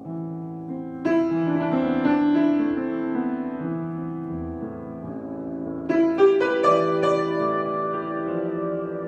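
Solo piano improvisation: sustained chords ringing on, with fresh loud chords struck about a second in and again about six seconds in.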